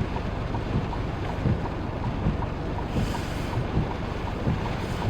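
Wind buffeting the microphone, a steady rumble with irregular low thumps, over a faint, even ticking at about two to three ticks a second.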